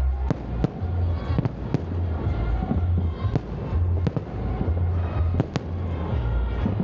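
Salute fireworks bursting overhead: about eight sharp bangs at irregular intervals, two pairs of them in quick succession, over a steady low rumble.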